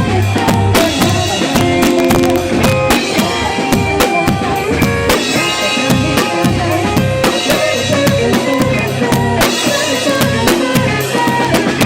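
Live band playing the instrumental intro of a song, with a drum kit keeping a busy beat over bass and other pitched instruments, captured with scratchy sound quality.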